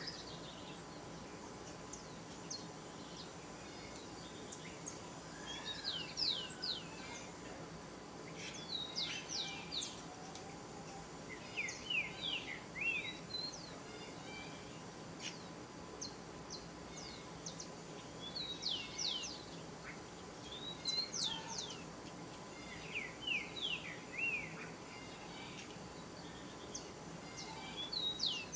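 Birds calling in short bursts of quick, high, downward-sweeping notes, a burst every few seconds, over a steady background hiss.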